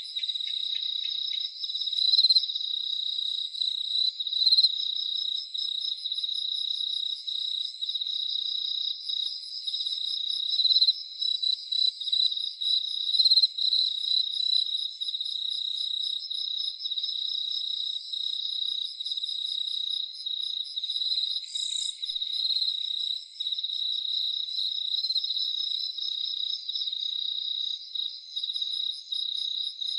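Crickets chirping in a dense night chorus: several overlapping high, pulsing trills, steady throughout, with fainter, higher chirps coming and going above them.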